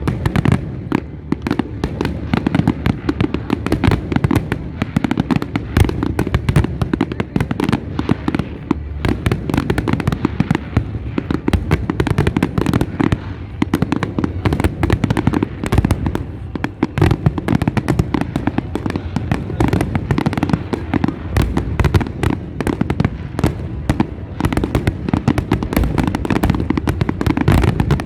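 A large fireworks display going off continuously: a dense, unbroken barrage of bangs and crackling reports.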